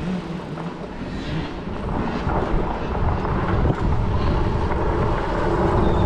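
Kids' dirt bike engines running on a motocross track. From about two seconds in, a steady engine tone grows louder.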